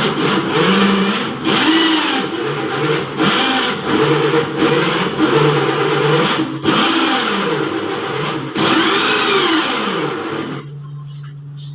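A motor-driven machine running loudly in a run of bursts of about one and a half to two seconds, its pitch rising and falling within each burst. It stops near the end.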